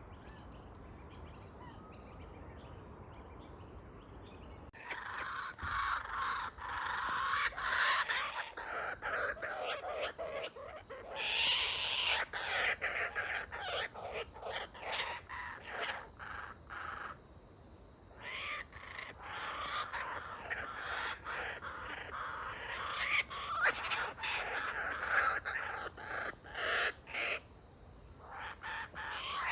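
Laughing kookaburras calling in a chorus of rapid, harsh repeated notes that breaks out about five seconds in and carries on, with two short pauses.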